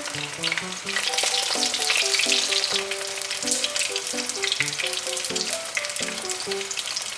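Eggplant halves frying in oil in a frying pan: a steady sizzle full of small crackling pops. A light background music melody plays underneath.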